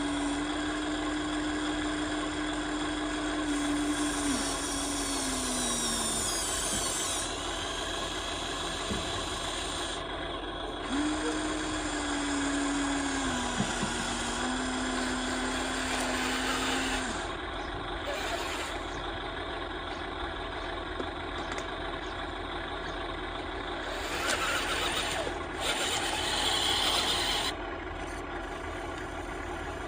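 Radio-controlled model excavator at work: a small electric motor whines at a steady pitch that sags lower, twice, over a constant gritty scraping.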